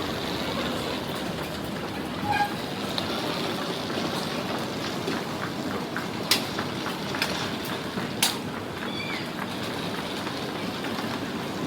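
Steady rumbling noise of a moving vehicle, with two sharp clicks about six and eight seconds in.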